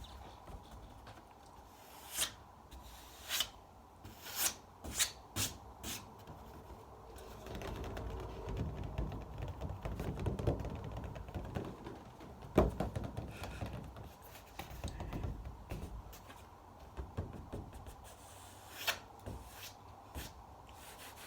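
Close-miked ASMR mouth sounds: a quick series of sharp wet clicks and pops, then several seconds of softer continuous mouth noise, then a few more clicks near the end.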